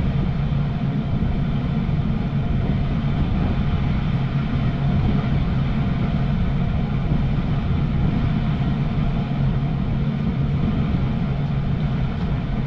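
Gas furnace firing on first stage: a steady low hum from its motors and burners.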